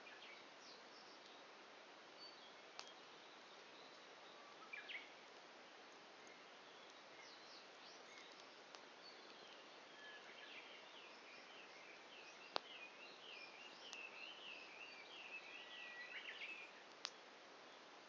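Wood fire burning low toward embers with a few sharp pops over a faint steady hiss. A bird chirps briefly, then sings a warbling run of notes through the second half.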